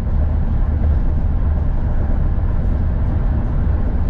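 A car running with a steady, loud, deep rumble. It holds one level with no revving.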